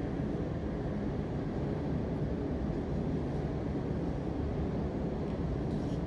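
Steady low rumble of background noise, even and unbroken, with no distinct events.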